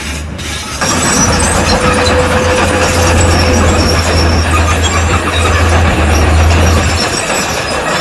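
Heavy earthmoving machinery at work: a low diesel engine drone under loud metallic grinding and squealing noise, which grows louder about a second in.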